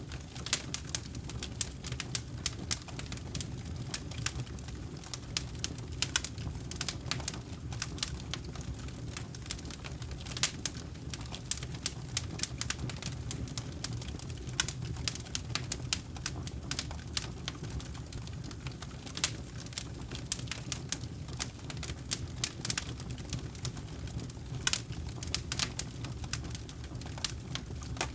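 Campfire burning, with wood crackling and popping in quick, irregular snaps over a low steady rumble of the flames.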